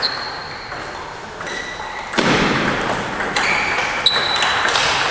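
Table tennis balls pinging off table and bats in a large hall, several separate hits with a short ring.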